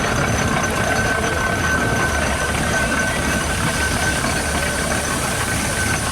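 Steam road engine running slowly past: a steady mechanical rumble and hiss, with a constant high tone throughout.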